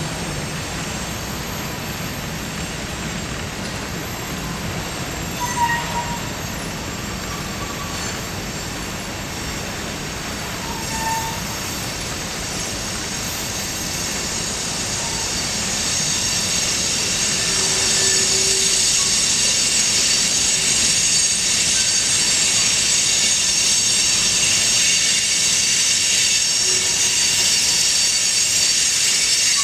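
A train rolling past on the rails with a steady rumble of wheels. High-pitched wheel squeal grows louder about halfway through, with a couple of short squeaks earlier on.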